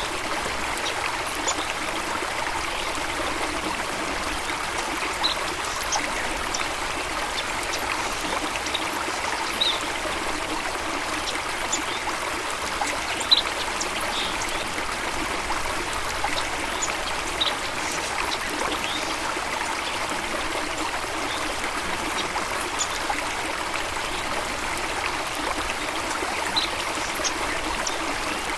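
Running water flowing steadily, with short high bird chirps scattered through it every second or two.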